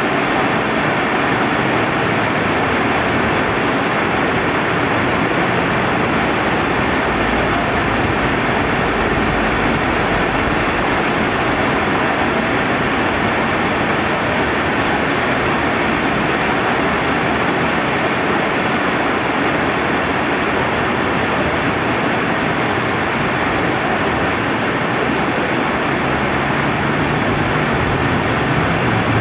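Steady rain falling beside a flowing river: an even, unbroken rush of water noise with no change in level.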